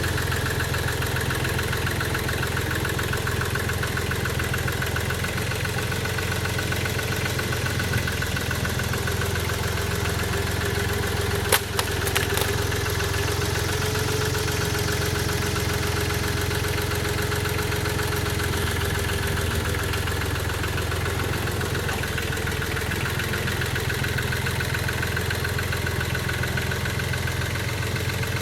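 An engine idling steadily, with a sharp click about halfway through followed by a couple of fainter ones.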